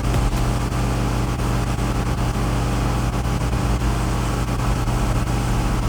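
Pressure washer engine running steadily with a constant hum, under a steady hiss of water spray.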